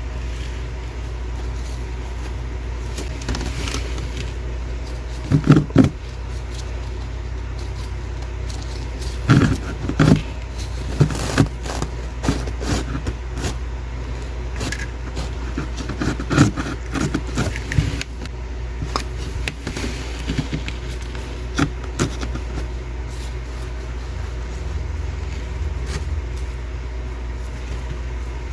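Thick sheets of freezer frost crunching and cracking in scattered short bursts, over a steady low hum.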